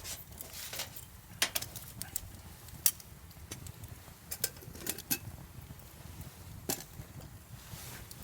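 A handful of sharp, separate clicks and taps, a few seconds apart, over a faint low background.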